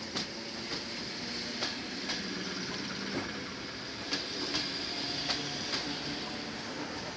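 A red suburban electric train rolling past on the rails, with steady running noise and sharp wheel clicks over the rail joints about every half second.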